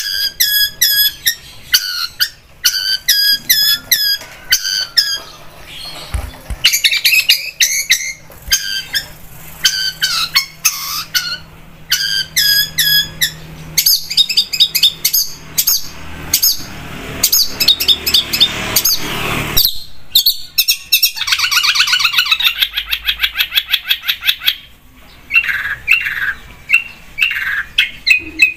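Long-tailed shrike (cendet) in full song: a rapid, non-stop run of sharp, repeated chattering and squawking notes, with a fast rattling trill about three-quarters of the way through.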